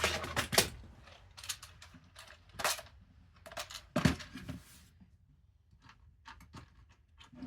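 Irregular sharp clicks, knocks and rustling of small parts being handled while a solder sleeve is picked out, with the loudest knocks just after the start and about four seconds in.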